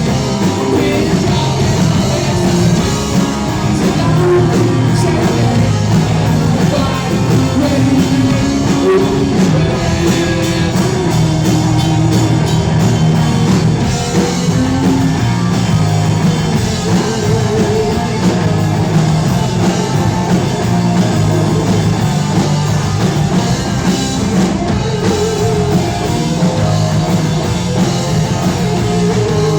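Rock band playing live, with a singing lead vocal over the instruments, loud and continuous.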